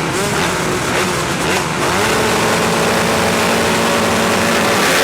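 Motocross bikes' engines running at high revs. The pitch rises near the start and again about two seconds in, then holds steady.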